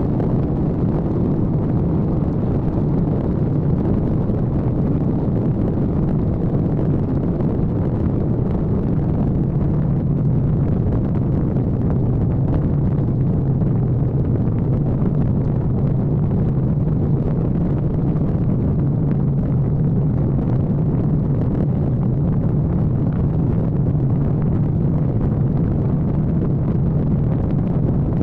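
Kawasaki ZX-14R's inline-four engine running at a steady cruise, a constant low drone mixed with wind rushing over the microphone.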